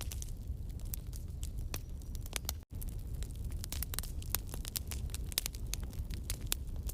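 Campfire burning, the wood crackling with many irregular sharp pops and snaps over a low steady rumble. The sound cuts out for an instant a little past a third of the way in.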